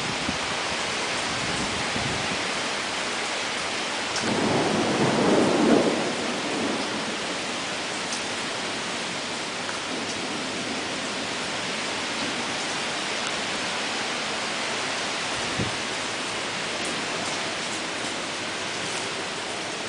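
Steady heavy rain during a thunderstorm, with a roll of thunder about four seconds in that lasts a couple of seconds.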